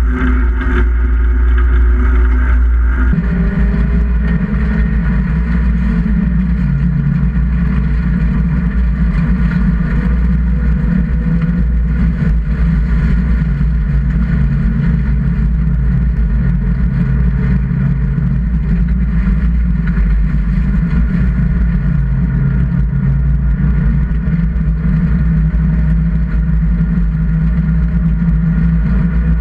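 Inside the cabin of a 1600 cc-class race car on an ice track: the engine runs hard at a fairly steady pitch over a constant low rumble, stepping in pitch a few times. About three seconds in the sound changes as a second car's engine takes over.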